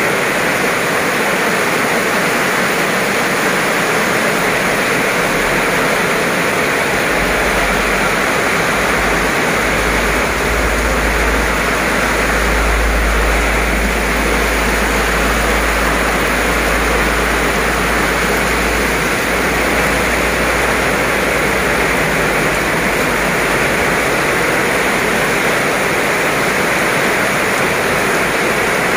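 Heavy rain pouring onto wet pavement and grass in a steady, loud hiss. A low rumble rises under the rain for a stretch in the middle.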